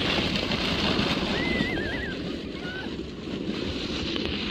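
Wind buffeting the microphone as a loud, uneven rumble. About a second and a half in there is a short, high, wavering call.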